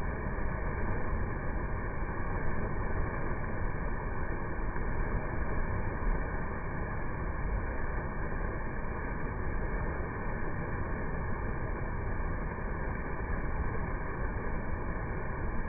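Steady rush of water pouring down a small waterfall, an even noise without pauses.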